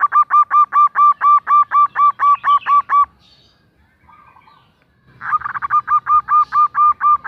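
Female zebra dove (perkutut) calling to attract a male: a fast, even run of short arched notes, about four to five a second. One bout ends about three seconds in, and a second bout starts about two seconds later.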